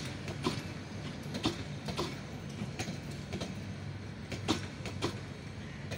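Passenger train coaches rolling past, a steady low rumble with wheels clacking over rail joints, the clacks coming in irregular pairs and singles every half second or so.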